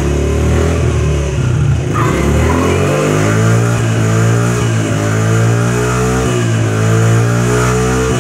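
Dirt bike engine running just after being kick-started, idling low and then revved up about two seconds in, held at higher revs with small rises and falls.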